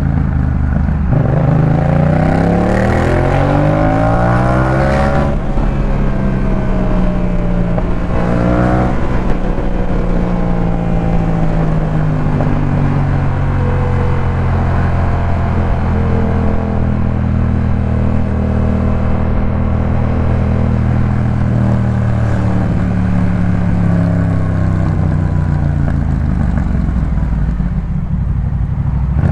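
2018 Yamaha MT-07's parallel-twin engine through a Jeskap K4 full exhaust, heard on board: it accelerates with rising revs, shifts up about five seconds in and again near nine seconds, runs at a fairly steady speed, then the revs fall away near the end as it slows.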